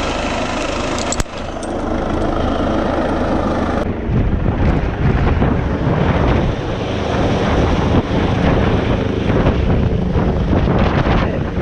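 Helicopter running in flight, a steady loud engine and rotor noise, with a click about a second in. From about four seconds in, wind buffets the microphone in gusts over the rotor noise.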